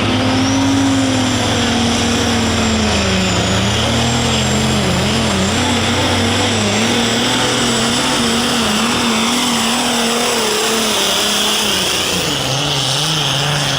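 Super stock pulling tractor's engine running hard at high revs under load. Its pitch wavers rapidly up and down through the middle and drops lower about twelve seconds in.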